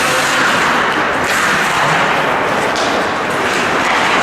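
Ice rink noise during a hockey game: a steady scraping hiss of skates on ice, with a couple of sharp knocks from sticks or the puck about a second in and near three seconds in.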